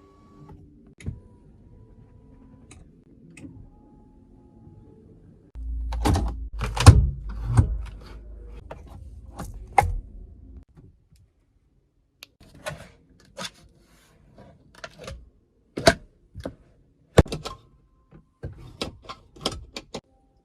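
Irregular clicks and knocks, with a low rumble under a cluster of louder knocks between about six and ten seconds in.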